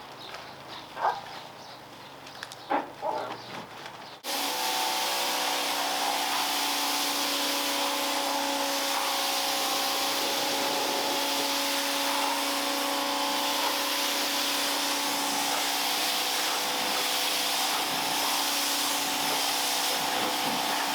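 A few light knocks, then about four seconds in an electric pressure washer starts: its motor's steady hum under the hiss of the water jet, running on at an even level.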